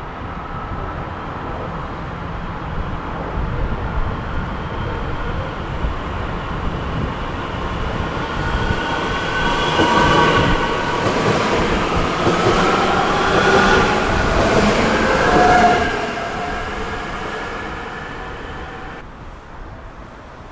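Red electric regional train moving along the station platform, its running noise building to its loudest about ten to sixteen seconds in. A high, shifting whine rides over the rumble, and the sound then fades away.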